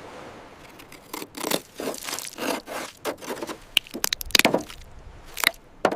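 A series of rough, irregular scraping strokes, with a few sharper clicks between about four and five and a half seconds in.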